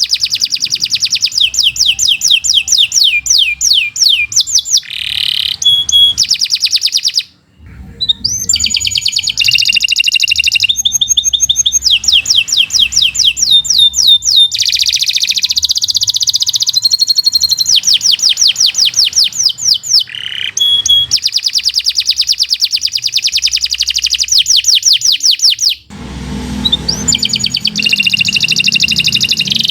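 Domestic canary singing a long, continuous song of fast repeated notes and rolling trills, broken by two short pauses, about seven seconds in and near the end.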